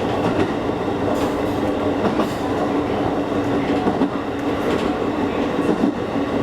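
Kakogawa Line electric train running between stations, heard from inside the car: a steady rumble with a low, even hum and scattered clicks of the wheels on the rails.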